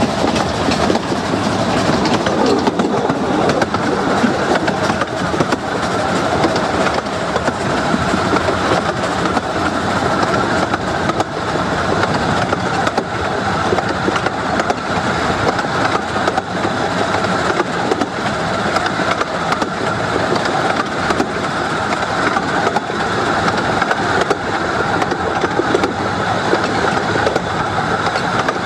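Carriage of a 15-inch gauge miniature railway train running at speed, heard from on board: a steady rumble and rattle of wheels on the rails.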